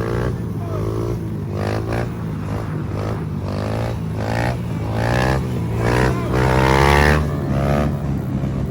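A motor vehicle engine running, with its pitch rising and falling repeatedly as it is revved.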